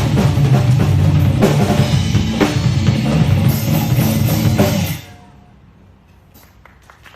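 Drum kit playing over backing music, kick, snare and cymbals together, ending abruptly about five seconds in and leaving only faint room sound.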